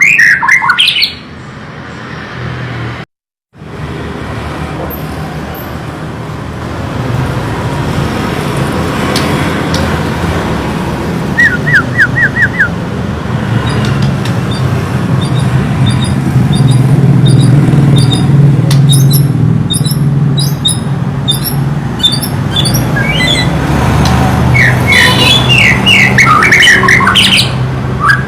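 White-rumped shama (murai batu) singing in bursts of rapid, varied phrases at the start and again near the end, with a quick run of five notes in the middle and scattered high chips, over a steady low rumble. The sound drops out completely for a moment about three seconds in.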